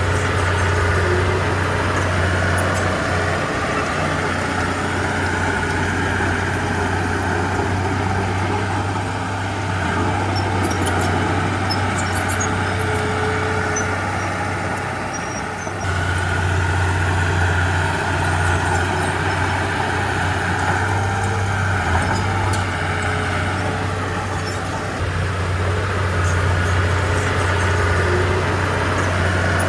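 Heavy diesel machinery engine running steadily at a low, even pitch, with scattered light metallic clinks. The sound changes abruptly about sixteen seconds in, after a brief dip.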